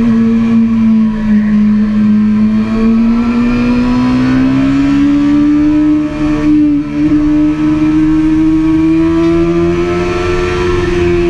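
Suzuki GSX-R sport bike's inline-four engine heard from a camera mounted on the bike, running steadily under way; its pitch dips slightly, then climbs slowly and evenly for several seconds as the revs build.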